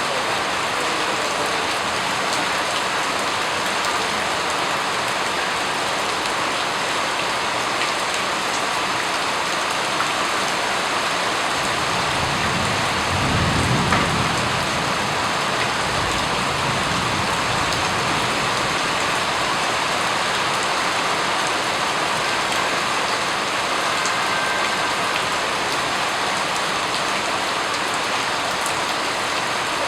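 Steady, even rainfall pattering on a surface, with a brief low rumble swelling and fading about halfway through.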